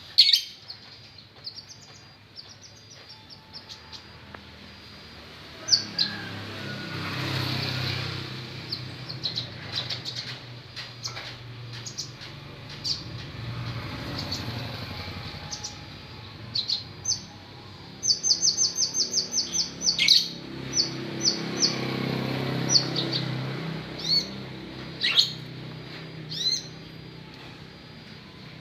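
White-rumped shama (murai batu) singing: sharp high chirps and whistled notes, with a fast run of repeated notes in the middle, over a low background rumble.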